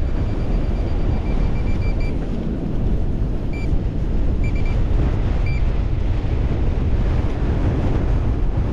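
Strong wind buffeting the microphone in a steady low rumble, with surf behind it. Short high electronic beeps from metal-detecting gear sound in a quick run at first, then a few more in the middle, signalling a small metal target being pinpointed.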